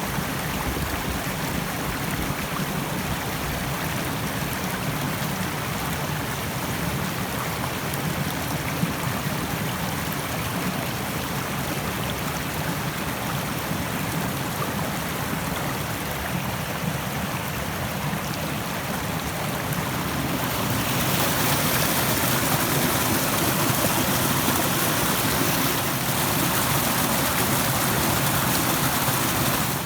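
Rushing stream: water running steadily over rocks, with a continuous rushing hiss that swells louder and brighter about two-thirds of the way through.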